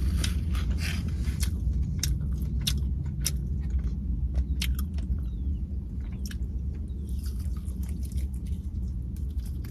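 A person biting into and chewing a crunchy Dorito-breaded chicken drumstick, with sharp crunches scattered throughout, over a steady low hum.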